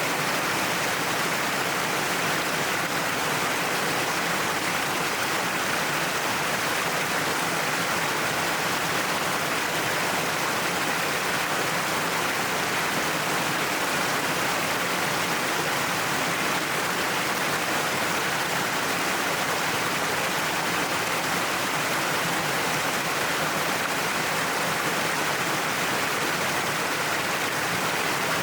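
Waterfall pouring down a cliff: a steady, unbroken rush of falling water.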